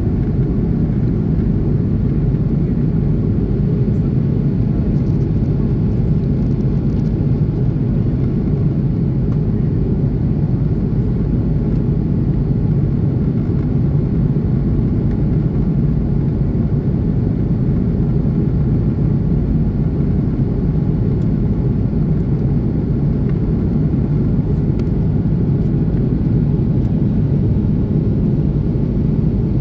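Steady low rumble of an Airbus A330-300's Pratt & Whitney PW4000 engines and airflow, heard from inside the passenger cabin over the wing.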